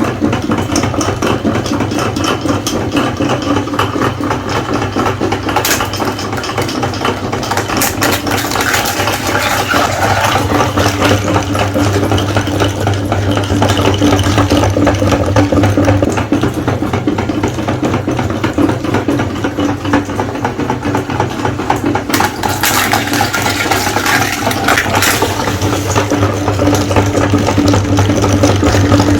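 Electric meat grinder running steadily under load, its motor humming with a constant crackling rattle as it grinds eggs.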